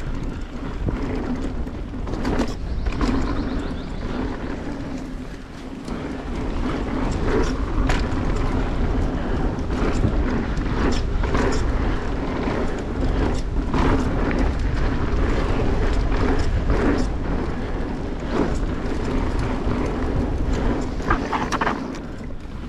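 Mountain bike riding fast down a machine-cut dirt singletrack trail: tyres rumbling steadily over the dirt, with wind on the microphone and frequent short rattles and knocks from the bike over bumps.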